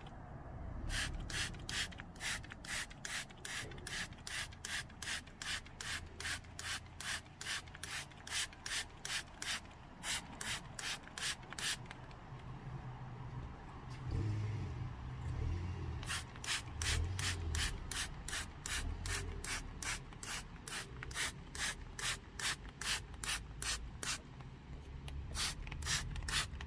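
Hand trigger spray bottle squirting water mist in quick repeated squeezes, about three a second, in two long runs with a pause of a few seconds between them.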